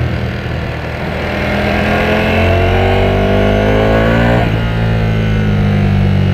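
Ducati Panigale V4S's V4 engine under acceleration, its pitch climbing steadily through a gear for about three seconds, then dropping sharply at an upshift about four and a half seconds in before pulling on again.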